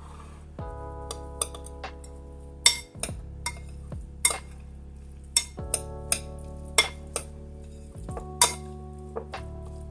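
Cutlery clinking and tapping against dishes, about a dozen sharp clinks at irregular intervals, the loudest nearly three seconds in. Soft background music with sustained chords plays underneath.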